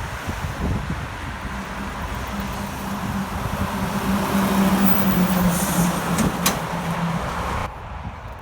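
Heavy truck driving past: engine drone and tyre noise build to their loudest about five seconds in, the engine note dropping a little as it goes by, then cut off abruptly near the end.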